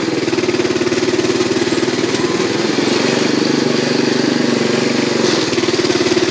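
Briggs & Stratton garden-tractor engine running steadily, at a fast idle, while burning off Sea Foam engine treatment put through its fuel, oil and intake.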